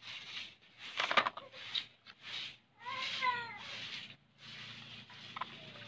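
A cat meowing: one drawn-out cry that falls in pitch about three seconds in, with a shorter, rougher sound about a second in.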